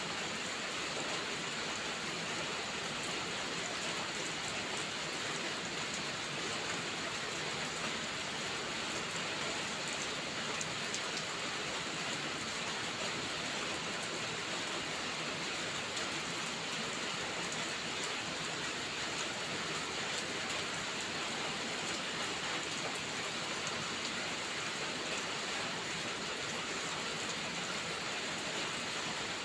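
Heavy rain falling steadily, an even hiss with faint sharp ticks scattered through it.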